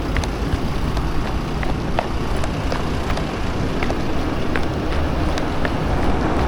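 Wind rushing over the microphone of a jogging runner, with light footfalls ticking about three times a second.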